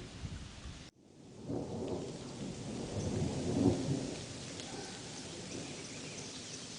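Thunder rumbling over steady rain. About a second in, the sound cuts out almost to silence for an instant. The rumble then swells back, peaks at around three to four seconds and dies away, leaving the rain hiss.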